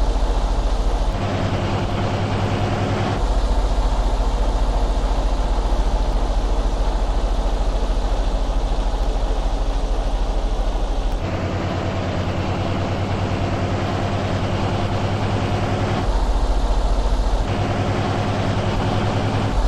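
Heavy cargo truck's diesel engine running with a steady low drone; its tone changes abruptly several times.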